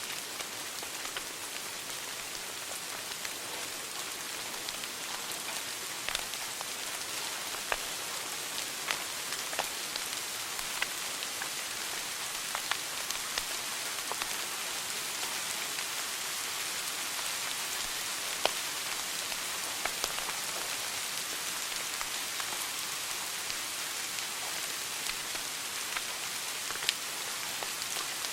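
Wood fire in a fireplace crackling: a steady hiss with scattered sharp pops, a few standing out louder, one of them about two-thirds of the way through.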